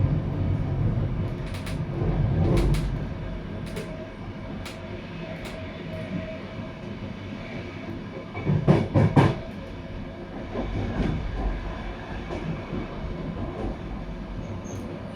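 Wheels of a GySEV Intercity passenger train running over the track as it leaves the station, heard from inside the coach: a steady low rumble with scattered clicks from the rails. A short run of heavier knocks comes about nine seconds in and is the loudest part.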